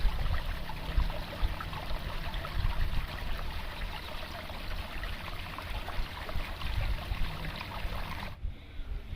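A stream flowing steadily, with a low rumble beneath. The sound cuts off suddenly near the end.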